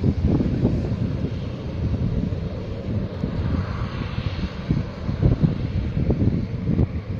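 Airliner engines during a takeoff, heard under heavy gusting wind on the microphone; the engine noise swells around the middle.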